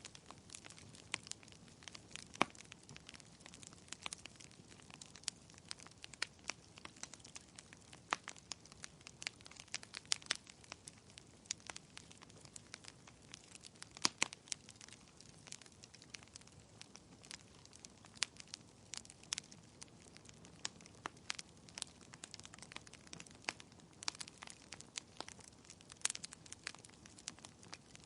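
Fireplace fire crackling: a soft steady hiss with frequent irregular sharp pops and snaps.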